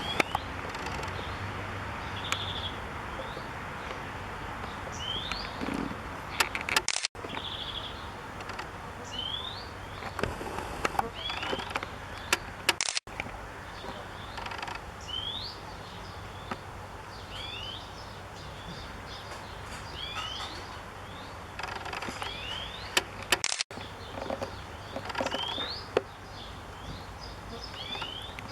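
Garden birds singing: short, quickly rising chirps repeated every second or two over a steady background noise, with a few brief clicks.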